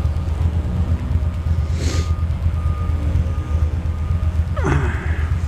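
Ducati Monster 620's air-cooled L-twin rumbling at low speed under wind noise, while a vehicle's reversing beeper beeps steadily about every half second. There is a short hiss about two seconds in and a brief falling sweep in pitch near the end.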